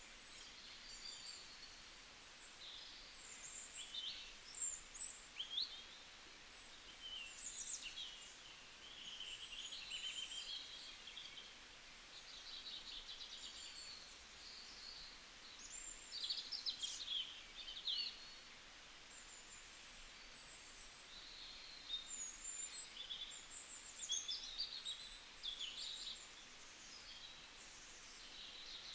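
Several small songbirds chirping and trilling in a bamboo forest, short high calls coming in clusters with brief lulls, over a faint steady background hiss.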